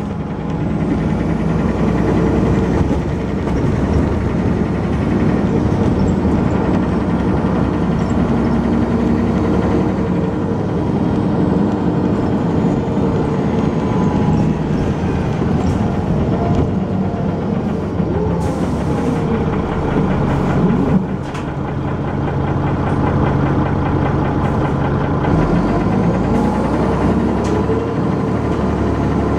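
Dennis Arrow double-decker bus's diesel engine heard from on board, running under way with its note rising and falling as it pulls and changes gear, with a brief drop in level about two-thirds of the way through. The bus is one noted for a knocking noise and a lot of engine thrash.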